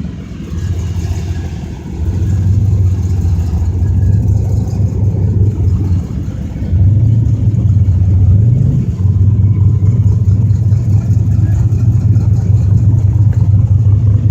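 A car engine running at low revs close by as the car drives slowly in. It makes a deep, steady rumble that dips briefly a couple of times and rises slightly once.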